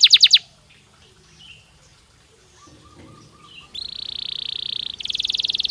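Domestic canary singing. A fast trill of repeated downward-sweeping notes breaks off in the first half-second, and after a pause of about three seconds a rapid buzzing roll begins. About five seconds in it changes to a higher, faster trill.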